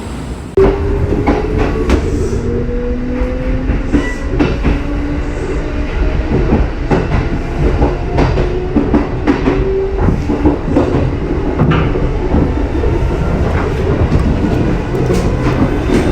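Kintetsu 21000 series Urban Liner electric train running by close up, its wheels clacking over rail joints. It comes in suddenly about half a second in, with a motor hum that rises slowly in pitch over the first few seconds.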